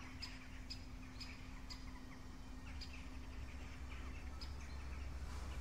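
A small bird calling: a series of short high chirps, about two a second at first and then more spaced out, over a faint low rumble and a steady hum.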